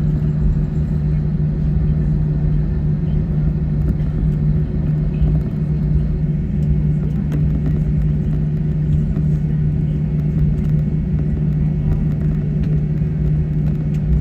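Cabin noise inside an Airbus A321 taxiing after landing: a steady rumble of idling jet engines and air conditioning, with a constant low hum.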